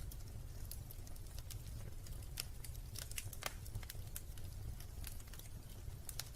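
Wood fire in a fireplace crackling, with irregular sharp pops, the strongest about three and a half seconds in, over a steady low rumble.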